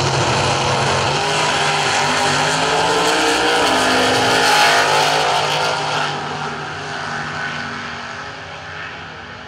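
A ute's 402 stroker V8 launching off the drag-strip start line at full throttle, its pitch rising as it accelerates. It is loudest about four and a half seconds in, then fades as it runs away down the track.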